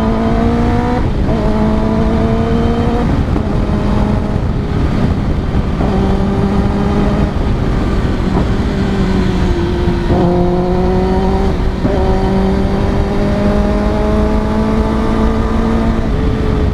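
Kawasaki ZX-10R's inline-four running through an Arrow Indy Race exhaust while riding, the engine note climbing repeatedly and breaking off briefly in between, as on gear changes and throttle roll-offs, over a steady rush of wind and road noise.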